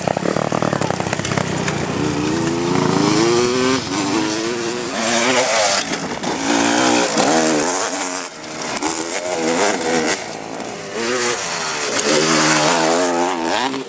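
Small motorcycle engine revving, its pitch rising and falling back about five times as the throttle is opened and closed.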